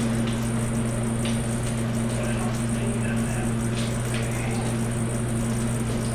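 Steady low electrical hum with a few light clicks and taps from hand tools working on the engine.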